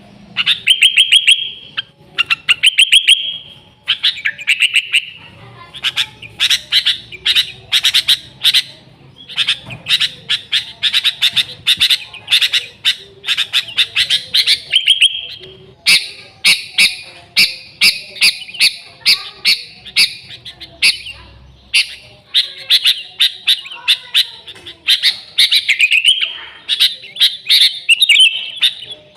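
Sooty-headed bulbul (kutilang) singing non-stop, a rapid run of short chirping notes in phrases separated by brief pauses.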